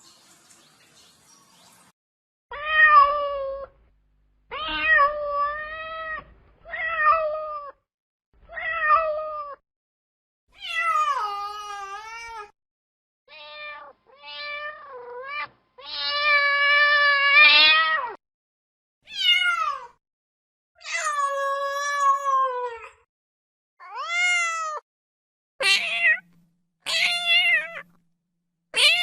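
A domestic cat meowing over and over: about a dozen separate meows with short gaps between them, a few of them drawn out. The last few are louder and harsher.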